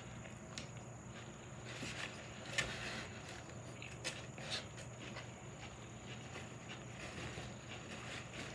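A person chewing a sandwich close to the microphone: soft, scattered wet mouth clicks over a faint steady hum.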